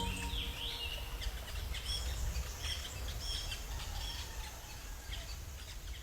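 Forest ambience with small birds chirping in short high calls over a low background hum, gradually fading out.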